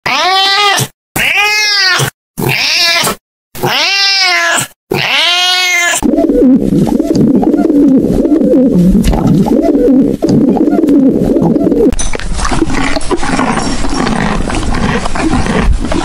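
A domestic cat meowing five times in a row, each meow about a second long. These are followed by a pigeon's low, steady cooing. In the last few seconds come rougher, noisier sounds from a pony.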